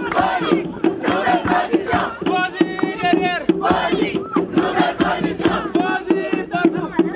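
Crowd singing and shouting together in a group chant, over a steady rhythmic beat.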